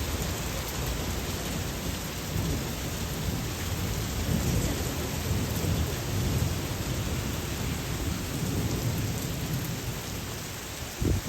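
Steady rain falling, with a long low rolling rumble of thunder that builds through the middle and fades, and a brief sharper burst of sound near the end.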